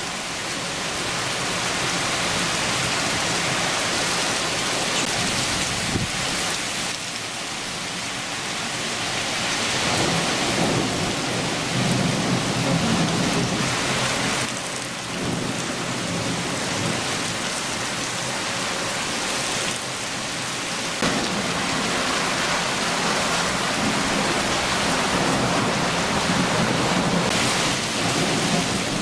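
Heavy rain shower falling steadily, with low thunder rumbling at times, swelling twice.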